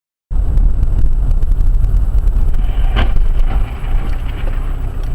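Loud, steady low rumble of a moving vehicle's road and wind noise on a dashcam microphone, starting abruptly, with a brief knock about three seconds in.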